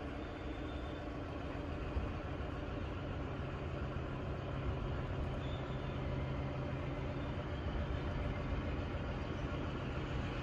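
Railway carriages and vans being shunted, rolling slowly past at walking pace, with a steady low drone throughout.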